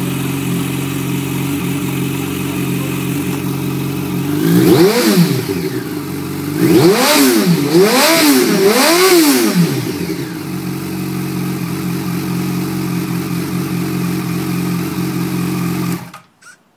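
Yamaha YZF-R1 inline-four engine with an aftermarket slip-on exhaust idling. It is revved once about four and a half seconds in, then three times in quick succession, then settles back to idle and cuts off suddenly near the end.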